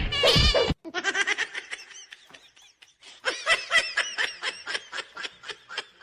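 A person laughing in rapid runs of short ha-ha pulses, one run after a sudden cut about a second in and a longer one from about the middle.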